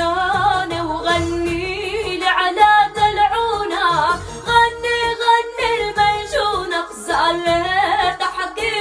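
A woman singing an ornamented Arabic folk melody, the voice sliding and turning around each note, over a low rhythmic accompaniment.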